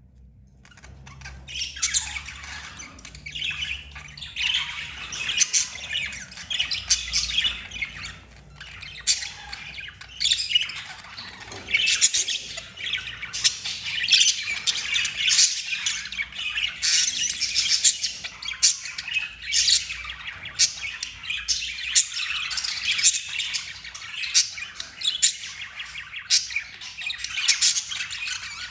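Budgerigar chatter: a continuous run of rapid chirps, warbles and harsh squawks, starting about a second in.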